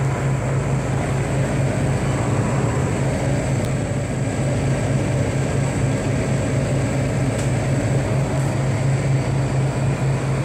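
Refrigeration condensing unit running, its condenser fans blowing air with a steady low hum.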